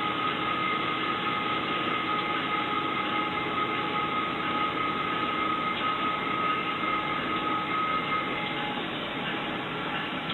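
A train running, a steady rushing rumble with a steady high-pitched tone over it that fades out about eight seconds in.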